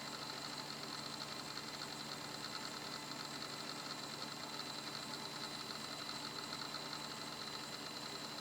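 2 GB hard disk drive from a Toshiba Libretto 50CT laptop, running steadily with a high-pitched whine over a faint even hum.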